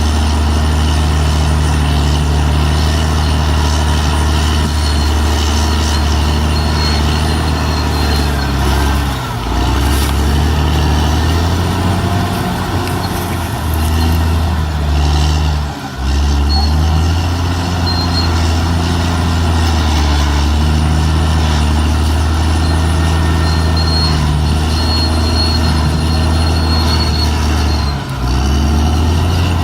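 Caterpillar D6R XL bulldozer's diesel engine running hard while the dozer works, with a steady low drone whose pitch and loudness dip briefly three times: about a third of the way in, around halfway, and near the end.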